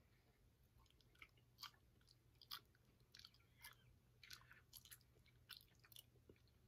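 Faint, irregular mouth clicks of someone chewing a chewy cola-flavoured gummy candy, over a low steady hum.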